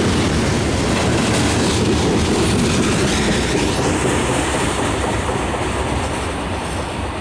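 Freight cars of a mixed manifest train rolling past, wheels clattering on the rails. The sound fades through the second half as the last car, a covered hopper, passes and moves away.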